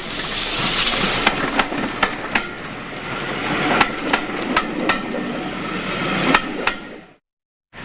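Railway train passing close by: a run of sharp, irregular clanks and clicks from the wheels crossing rail joints over a steady rumble, with a hiss in the first second. The sound cuts out suddenly near the end.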